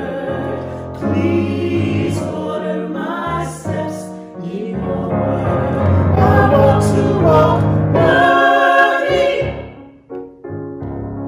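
A choir singing a hymn with sustained accompanying notes beneath, with a brief drop in level about ten seconds in before the music carries on.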